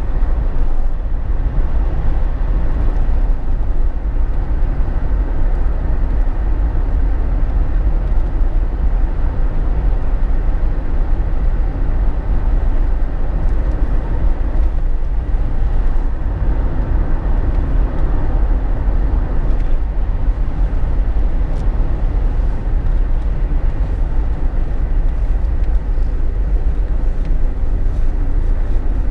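Steady cabin noise of a Jeep Wrangler JK on the road: tyre and wind noise over a constant low drone, with no change in pace.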